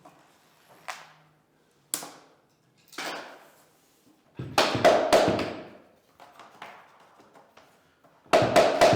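Hammer knocking vinyl click-flooring planks into place: a few single knocks, then a quick run of strikes about halfway through and another near the end, some with a short ringing note.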